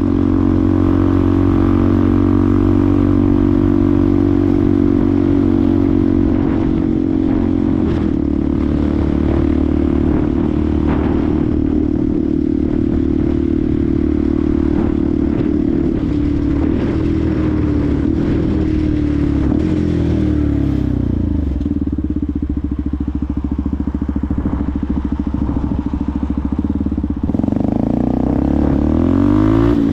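Benelli TNT 125's single-cylinder engine running at steady revs under way. About halfway through the revs fall away, then they climb again near the end as the bike accelerates.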